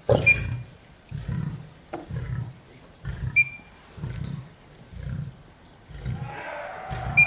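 A lion roaring: a run of deep grunts, about one a second. Three very short high-pitched tones cut through it, near the start, about three seconds in and at the end.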